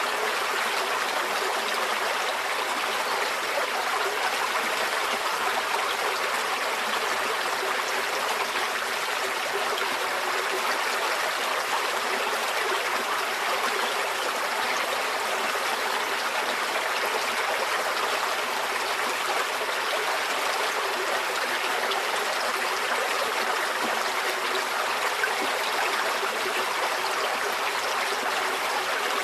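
Shallow forest stream flowing steadily, water trickling and gurgling over stones.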